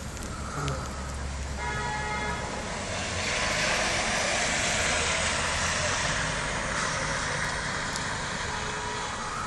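Street traffic: a short horn toot about a second and a half in, then a vehicle passing, its hiss swelling and slowly fading.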